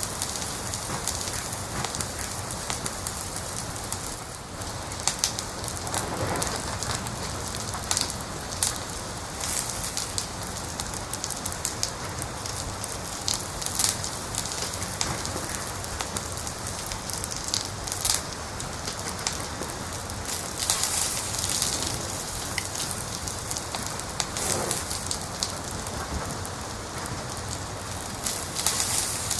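Wood fire crackling: a steady hiss with irregular sharp pops and snaps, a few louder ones scattered through.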